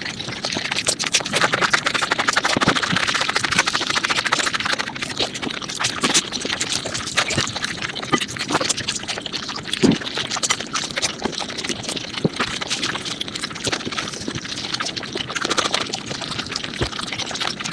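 Mukbang eating sounds sped up about five times: a dense, unbroken run of quick wet chewing clicks and smacks.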